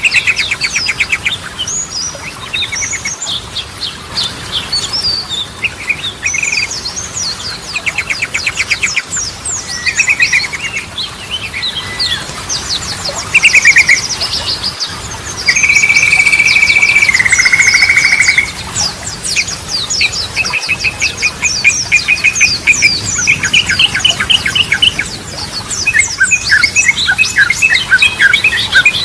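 Yellow-vented bulbul (trucukan) in full song: a varied string of rapid trills and chirps. About halfway through comes a buzzing note held for a few seconds, which steps slightly lower before breaking off. Quick repeated chirps follow near the end.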